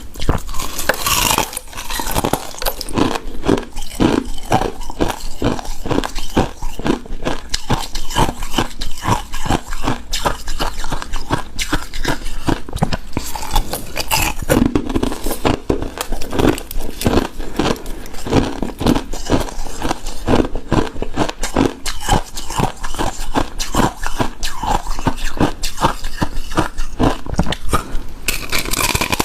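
Close-miked eating of shaved ice: dense, rapid crunching and crackling as the icy dessert is chewed.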